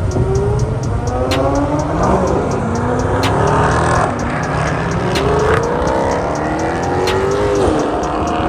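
Performance car engine accelerating hard through the gears. The pitch climbs steadily, then drops back at each upshift, with a quick dip and recovery near the end.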